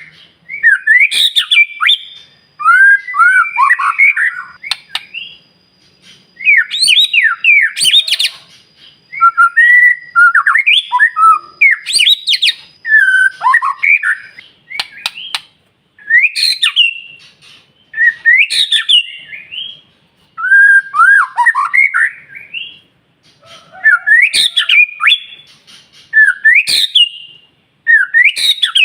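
White-rumped shama singing loud, varied phrases of gliding whistles and quick chattering notes with sharp clicks, roughly one phrase every two seconds with short pauses between.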